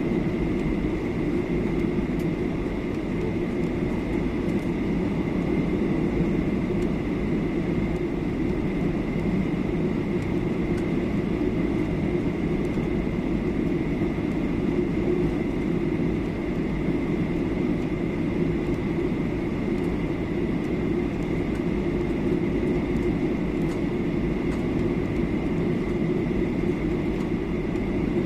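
Steady cabin noise inside a Boeing 737-800 airliner in descent: an even, low rush of airflow and engine noise with a thin, steady high tone over it, unchanging throughout.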